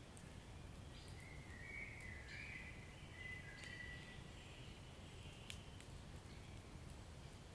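Wood fire burning in a fireplace: a faint low rumble with a few sharp crackles, loudest one about five and a half seconds in. From about one to four seconds in a thin, wavering high whistle runs through it.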